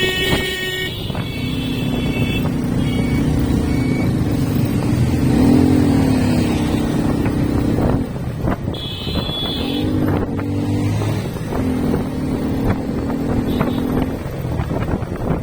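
Motorcycle engine running on the move, its pitch rising and falling with the throttle, over road and wind noise. A horn sounds briefly at the start and again about nine seconds in.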